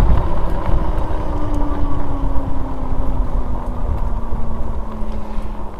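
Wind rushing over the microphone as a fat-tire e-bike rolls fast downhill, with a whine that slowly falls in pitch as the bike slows.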